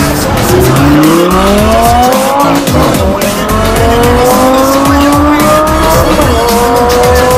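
Sports car engine accelerating hard, its pitch climbing and dropping sharply twice as it shifts up through the gears. Hip hop music with a beat plays under it.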